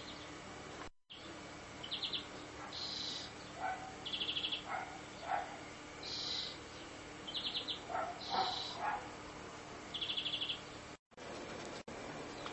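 A small bird calling repeatedly: short high chirps alternating with quick pulsed trills, with fainter lower notes in between. The sound drops out briefly twice at edit cuts.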